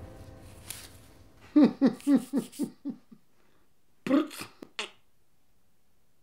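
A man laughing: a run of about seven short, falling 'heh' sounds, then a shorter burst of laughter about a second later. Background music fades out at the start.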